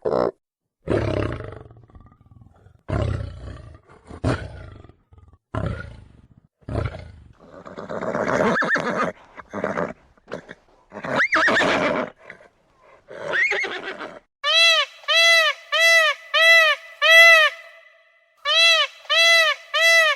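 Animal calls: short, low cries through the first seven seconds, longer cries that sweep up and down in pitch around the middle, then a run of evenly spaced clear-pitched calls, about two a second, in the last six seconds.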